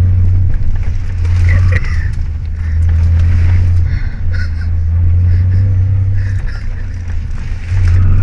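Nissan 300ZX Twin Turbo's 3.0-litre twin-turbo V6, heard from inside the cabin while driving: a deep, steady drone that dips briefly several times.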